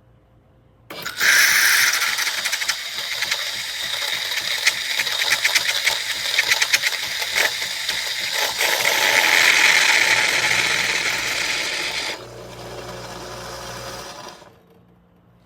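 Philips 3200 Series automatic coffee machine's ceramic burr grinder grinding coffee beans, a loud dense crackling clatter that starts about a second in and runs for about eleven seconds. It then drops to a quieter, lower hum of the machine for a couple of seconds before stopping.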